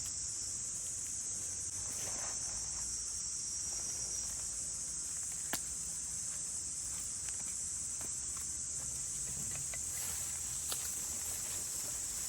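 A steady, high-pitched chorus of insects chirping, with a few faint sharp clicks, one about five seconds in and another near the end.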